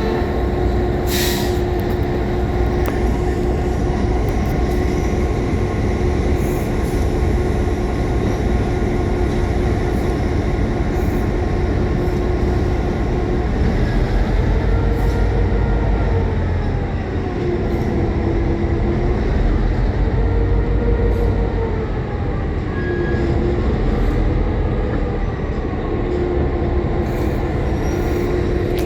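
Train running with a continuous low rumble and a held tone over it. From about halfway through, the tone begins to waver up and down in pitch.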